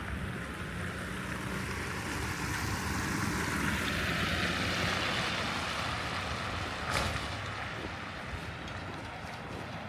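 A vehicle passing on a snow-covered road, its tyre hiss swelling to a peak about halfway through and then fading away. A single sharp click sounds about two-thirds of the way in.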